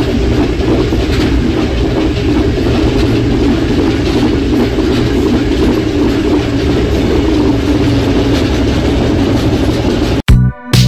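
A passenger train running along the track, heard from on board: a steady rumble of wheels on rail with some clickety-clack. It cuts off suddenly near the end as electronic music starts.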